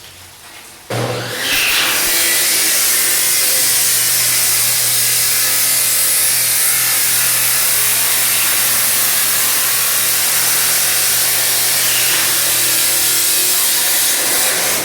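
Electric power saw starting up about a second in and running steadily while cutting wooden framing studs to length, stopping just before the end.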